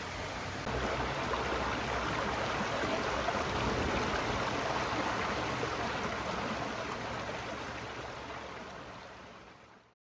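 Flowing stream: a steady rush of water that grows louder just under a second in and fades out near the end.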